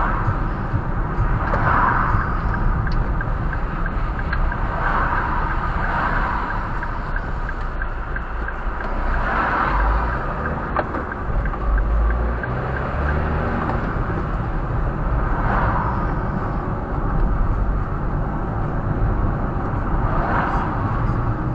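Steady rumble of a road vehicle, heavy in the low end, with a hissing swell every few seconds.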